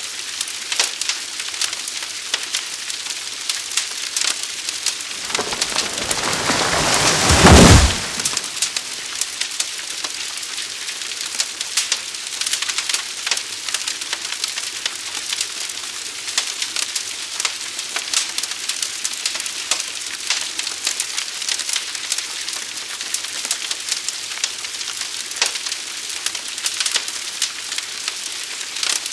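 Fire burning with dense crackling and hissing. About five seconds in, a louder deep whoosh builds for a couple of seconds, peaks sharply, and drops back to the crackle.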